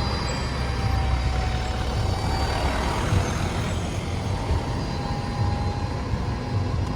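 Diesel bus engine pulling away from a stop, a deep steady rumble.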